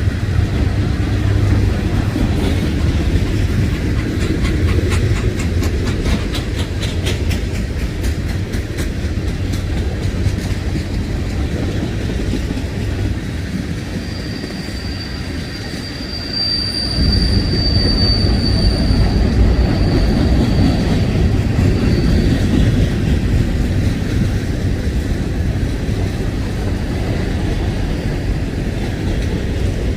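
Freight train rolling past, its wheels clicking rhythmically over rail joints, then a high steady wheel squeal from about 14 to 22 seconds in as the rumble grows louder.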